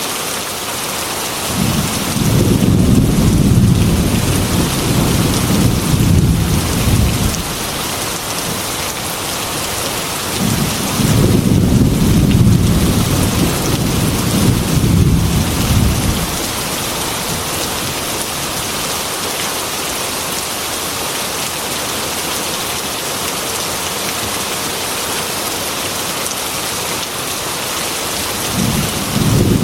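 Heavy rain hissing steadily against a glass window, with two long rolls of thunder in the first half and another beginning near the end.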